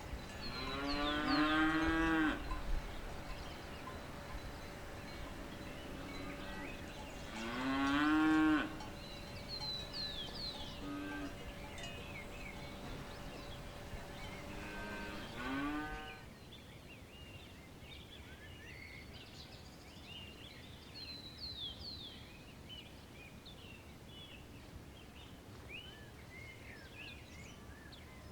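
Cows mooing: two long, loud moos about a second and a half each, near the start and about eight seconds in, then a shorter moo around sixteen seconds. Short high chirps run throughout.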